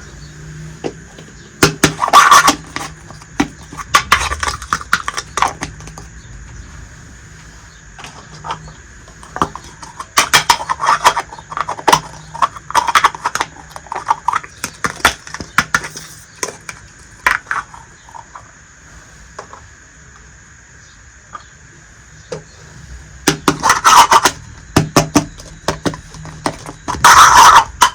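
Small miniature toy kitchen pieces being handled, with bursts of clicking and rattling as they are picked up and set down, loudest in clusters near the start, in the middle and near the end.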